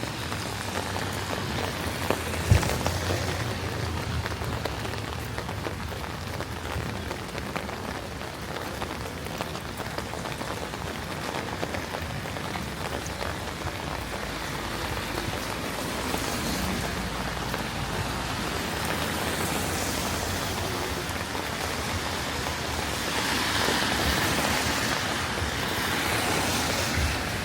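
Steady rain falling and pattering, with a single sharp knock a couple of seconds in. The hiss swells louder twice later on, most strongly near the end.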